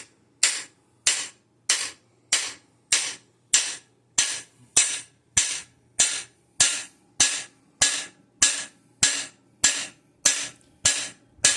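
Hammer blows on a cam bearing installer's driver, driving a cam bearing into its bore in an engine block: about nineteen evenly spaced metallic strikes, roughly one and a half a second, each ringing briefly.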